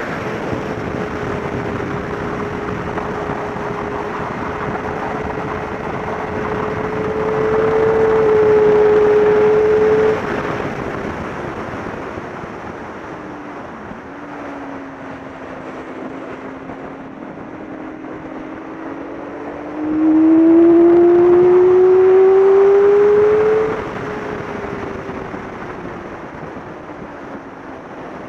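Yamaha sport bike's inline-four engine at high revs, with wind rushing over the microphone. It holds steady, grows louder, then drops sharply about ten seconds in and sinks lower as the rider slows for a corner. About twenty seconds in it climbs hard and loud under acceleration for a few seconds, then backs off again.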